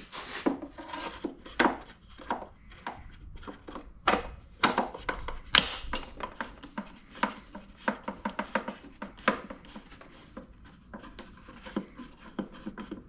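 Screwdrivers and small objects being handled on a workbench: irregular clicks, taps and knocks, with some rubbing in between.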